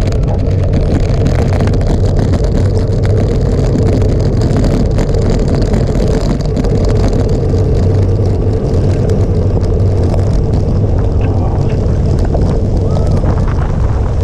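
Steady, loud noise of a boat under way: wind buffeting the microphone over a constant low motor hum.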